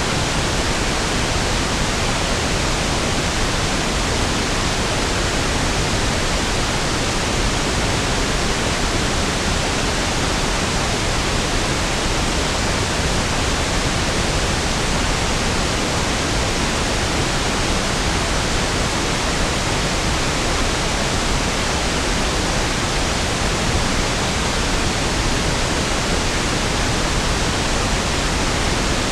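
Steady pink noise (1/f noise): an even hiss, deeper and smoother than white noise, without any change or event.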